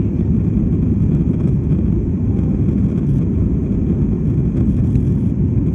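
Aeroplane engines and rushing air making a steady low rumble that holds an even level throughout.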